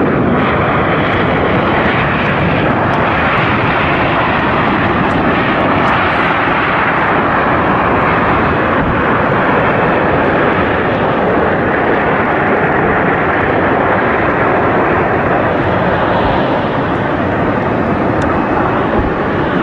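Airplane engine running steadily at close range: a loud, even rushing noise with no break or change.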